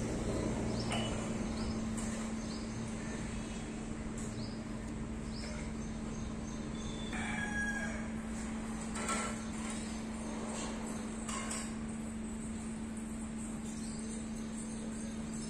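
Birds calling over a steady low hum and outdoor background noise, with the clearest, longer call about seven seconds in.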